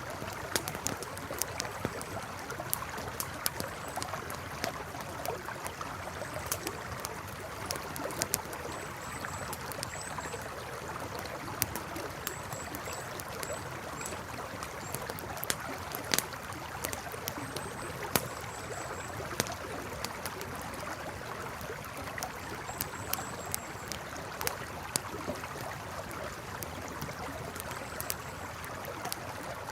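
Campfire crackling, with frequent sharp pops, over the steady rush of a flowing river. Faint high chirps come in short runs of three or four now and then.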